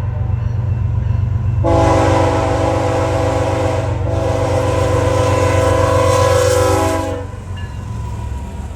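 Freight locomotive's multi-chime air horn sounding over the steady low rumble of a passing BNSF coal train. There are two long blasts, the second following almost without a break about four seconds in. The horn cuts off about a second before the end.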